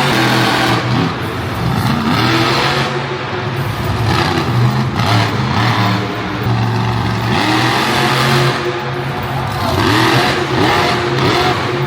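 Monster truck engines running loud, revving up and down over and over, the pitch rising and falling in repeated sweeps.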